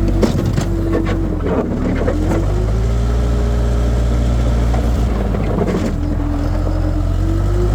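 Skid steer engine and hydraulics running under load, the whine dipping in pitch and recovering twice as the machine works. Several knocks and clanks in the first couple of seconds and again near the six-second mark.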